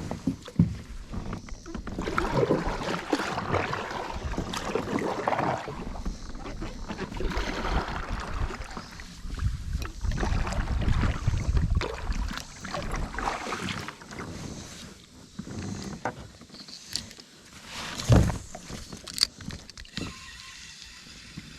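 Kayak on a river: irregular water splashing and knocks of gear against the hull, with one sharp knock near the end.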